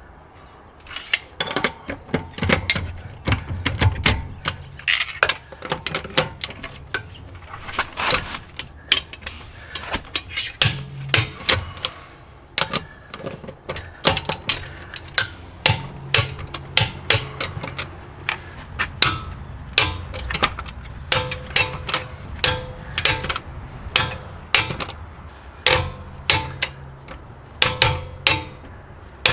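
Hand-tool work on a car: a long, irregular run of sharp clicks and knocks, a few a second, over a faint low hum.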